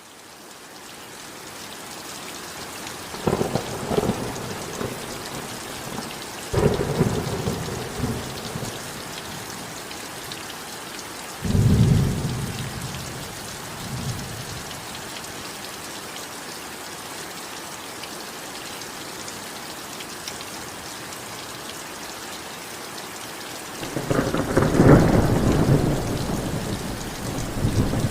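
Heavy rain falling steadily, fading in over the first couple of seconds. Rolls of thunder rumble through it several times, the deepest about twelve seconds in and a long, loud one near the end.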